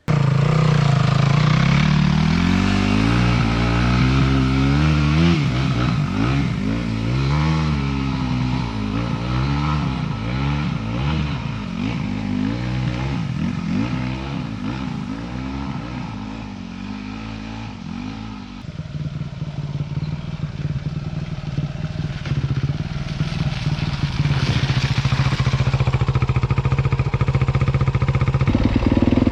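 Dirt bike engine running under way on a trail, its revs rising and falling over and over as the throttle is worked, then settling into steadier running about two-thirds of the way through.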